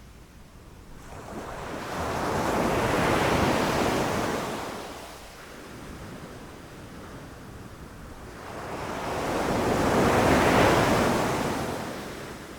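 Ocean waves rushing onto a shore in two long surges, each building for a few seconds and washing back, the second near the end.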